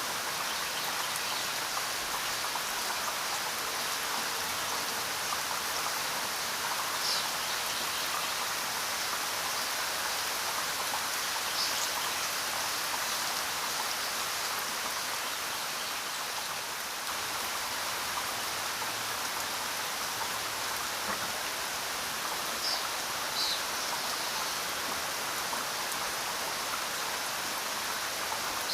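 Steady rain falling, an even hiss with no let-up, broken by a few brief high-pitched blips.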